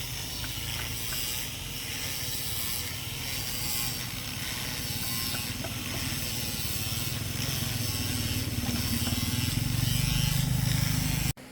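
A hand tool working wood with a continuous mechanical grinding that gets heavier toward the end, then cuts off abruptly.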